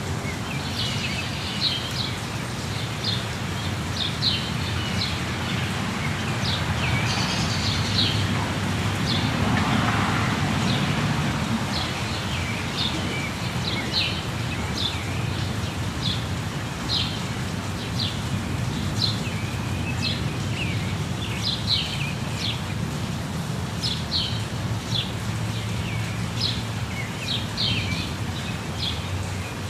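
Jungle birds chirping, many short high calls repeating throughout, over the steady rush of a waterfall that swells a little about ten seconds in.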